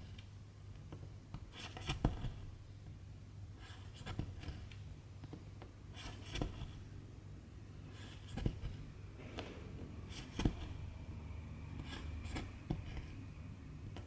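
Cross-stitch needle pushed through the fabric and silk thread drawn through it, a short scratchy pull about every two seconds, over a faint steady low hum.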